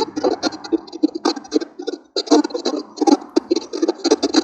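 Choppy, irregular crackling and scratching noise that comes in quick uneven bursts.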